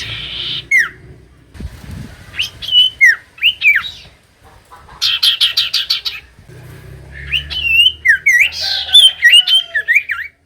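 Common iora (cipoh) song: loud sliding whistles, then a quick rattle of about eight notes around five seconds in, then more whistles close together near the end.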